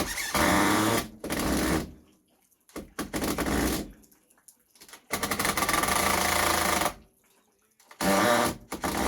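Handheld electric power tool, such as a drill or driver, run in five short trigger bursts of about one to two seconds each, with brief pauses between them.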